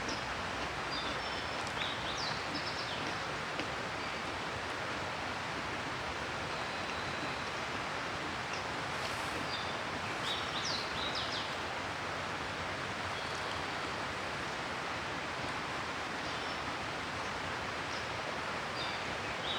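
Steady rushing outdoor background noise with short high bird chirps in three clusters: near the start, about halfway, and at the end.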